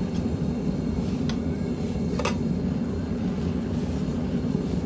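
Gas-fired melting furnace burner running with a steady, deep rushing noise, with a few light clicks and one sharper click a little past the middle.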